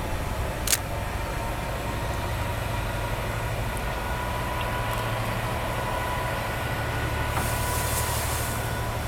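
A1 Pacific steam locomotive 60163 Tornado on a turntable: a steady low rumble, with a sharp click under a second in and a brief high hiss lasting about a second, some seven and a half seconds in.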